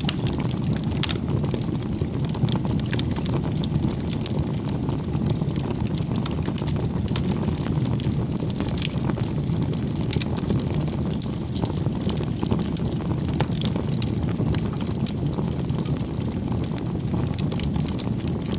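Wood campfire burning: a steady low rumble with frequent small sharp crackles and pops.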